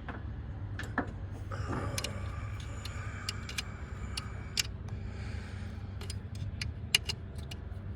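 Metal hand tools clinking and rattling as a 10 mm socket or wrench is picked out and handled: irregular sharp clicks, with a scraping rustle over a few seconds in the middle. A steady low hum runs underneath.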